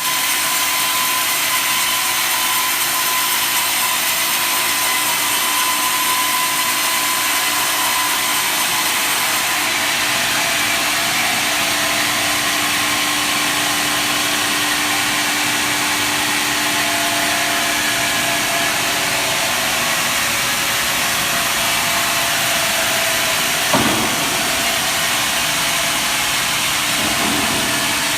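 Horizontal log band sawmill running steadily, a loud even hiss with faint steady whining tones over it. A single brief knock about three quarters of the way through.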